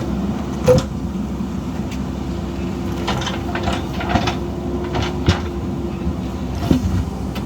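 JCB backhoe loader's diesel engine running steadily, with a few sharp knocks and clicks over it.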